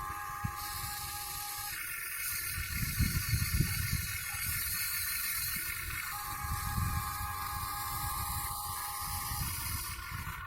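Electric motors of a Huina 1580 RC excavator whining steadily, the pitch switching between a few set tones as the machine's motions start and stop, over a low rumble with irregular knocks.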